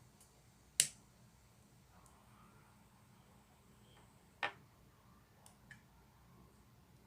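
Two sharp, brief crunches of Kkobuk Chip corn snack, about 1 second in and again near 4.5 seconds, the first louder, followed by a couple of faint little clicks.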